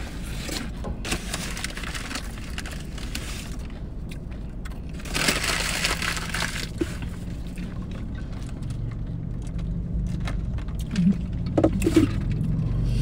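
Close-up eating sounds: chewing and crunching on tortilla chips and burrito, with small mouth clicks throughout and a louder stretch of crunching about five seconds in.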